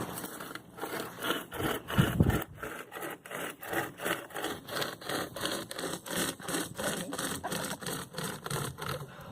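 Pocket chain saw (a flexible rope chain with cutting teeth, pulled by hand loops) sawing through a Desert Willow limb, in quick back-and-forth rasping strokes of about two or three a second.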